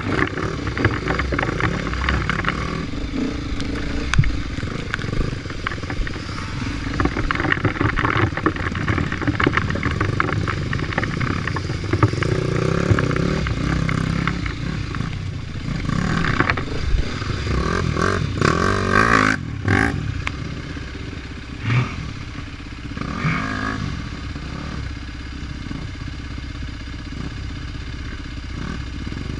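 Off-road motorcycle engine running and revving up and down as it is ridden along the trail, with clattering and scraping.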